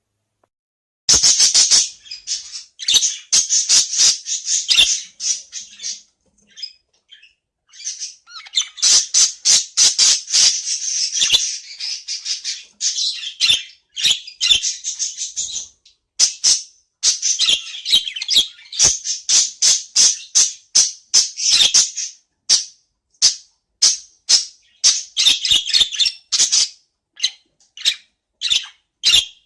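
Budgerigar warbling and chirping: fast runs of high chatter mixed with sharp clicks, coming in phrases with short pauses, starting about a second in.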